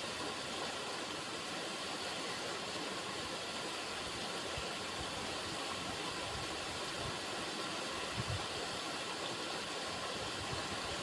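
River water running, a steady even rush, with a brief low thump about eight seconds in.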